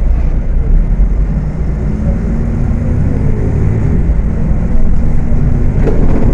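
Diesel engine of a Volksbus 18.280 OTS city bus running on the road, its pitch rising from about two seconds in as the bus accelerates. A brief sharp noise comes near the end.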